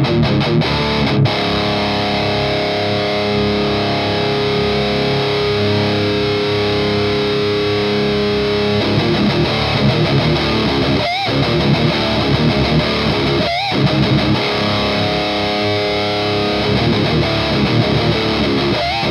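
Electric guitar played through a Skull Driver V2 Evolution overdrive pedal into an EVH 5150 Iconic amp, distorted: long held chords, with two short breaks about two-thirds of the way through.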